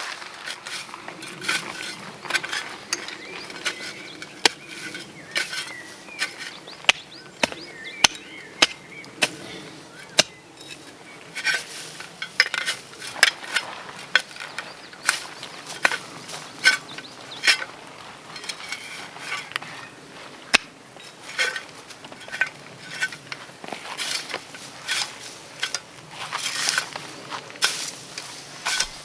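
Irregular sharp clicks and knocks from a small tent being pitched by hand.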